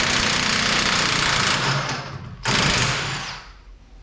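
Impact wrench hammering as it spins bolts loose under a car. It runs in one long burst, stops, then runs again briefly for about a second.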